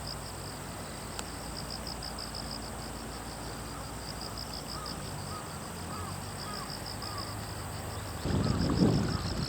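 An insect, cricket- or cicada-like, trilling in a rapid, even pulsing song high in pitch. Near the end a louder rough rumble of wind on the microphone comes in.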